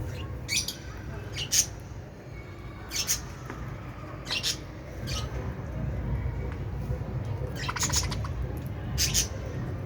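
Lovebirds giving short, sharp, high-pitched squawks and chirps, about six calls at irregular intervals, one near the end with a quick rattling trill.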